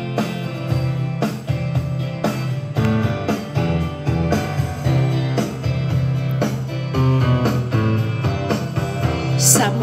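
Instrumental intro of a karaoke backing track: guitar, bass and a steady drum beat, with no vocals yet.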